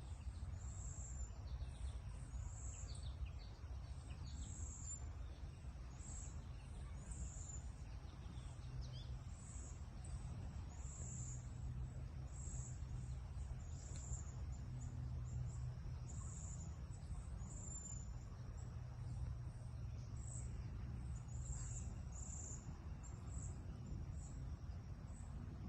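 Outdoor ambience with a high insect chirp repeating roughly once a second over a steady low rumble.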